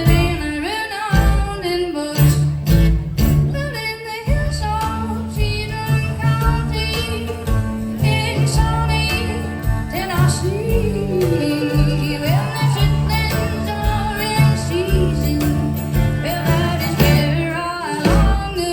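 Live country band playing with a woman singing, her voice sliding up and down between notes over a steady bass line.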